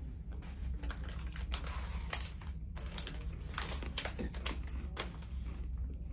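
Irregular crinkling and crackling of plastic candy packaging being handled, a run of sharp uneven clicks.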